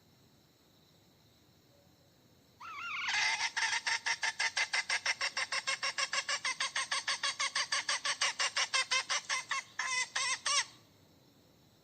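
Hen cackling: a rapid, even string of clucks, about seven a second, starting a couple of seconds in and running for about eight seconds, with a short break before a final few clucks.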